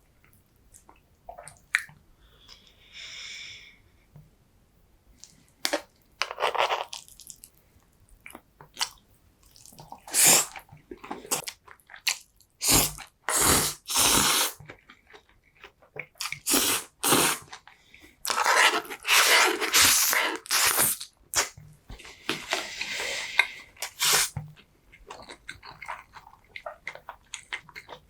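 Close-miked eating sounds: a person chewing and biting food with the mouth near the microphone, in irregular bursts of sharp smacks and crunches that come thickest in the middle stretch.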